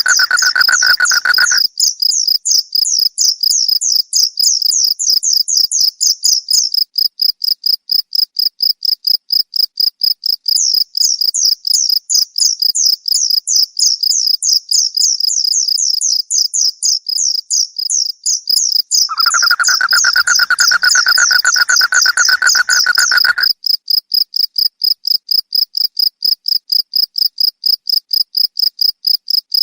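Crickets chirping in a fast, even pulse that never stops. A second, lower call sounds briefly at the start and again for about four seconds about two-thirds of the way through.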